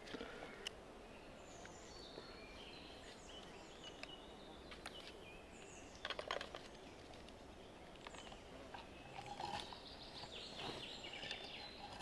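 Faint birdsong: short, high chirping phrases from songbirds. A few sharp knocks come about six seconds in.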